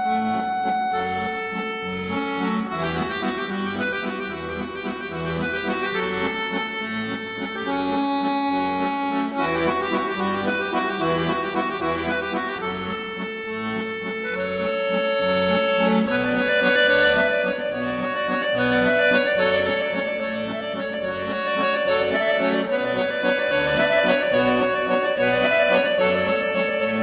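Background music led by an accordion playing a flowing melody in a traditional style.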